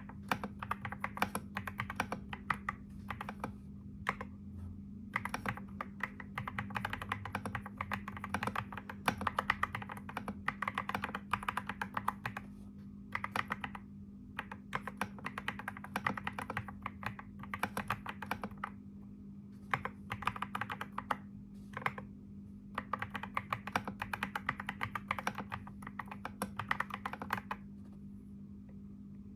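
Fast typing on a keyboard, dense clattering keystrokes in bursts of a few seconds with brief pauses, stopping about two seconds before the end. A faint steady hum runs underneath.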